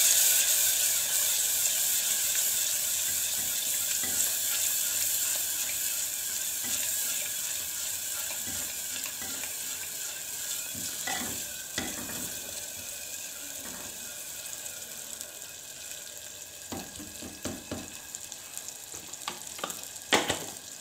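Tomatoes and spice masala frying in oil in a clay matka, sizzling hard at first and dying down steadily. A spoon stirs through it, knocking against the clay pot now and then.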